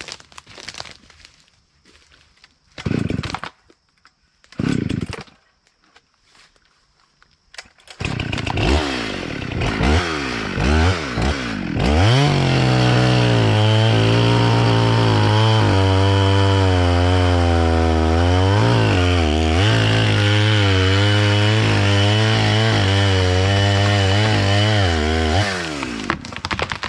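Two-stroke chainsaw: after two brief sounds, it fires about eight seconds in, revs up and down, then runs loud at high throttle through a cut, its pitch wavering under load, before letting off near the end.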